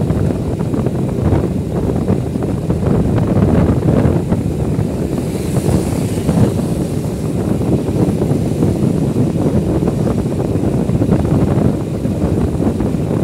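Wind buffeting the microphone on a moving motorcycle, a loud uneven rumble that masks any engine sound.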